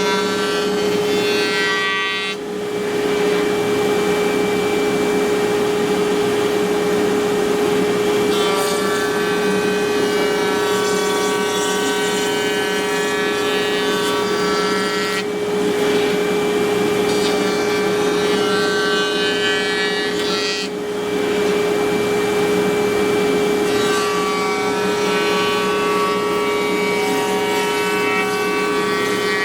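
CNC router spindle running with a steady high whine while a bit cuts wood, joined by stacks of other tones that change pitch every few seconds. The sound dips briefly about two, fifteen and twenty-one seconds in.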